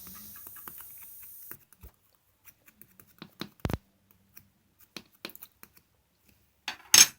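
Opaque fluffy slime being handled, giving scattered small sticky clicks and pops, with one sharp pop about halfway through and a louder crackling squish near the end. A faint steady hiss sits under the first second and a half.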